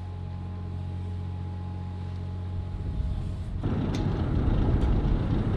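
Ship's machinery running with a steady low hum. About three and a half seconds in it changes suddenly to a louder, rougher low rumble with a couple of faint clicks.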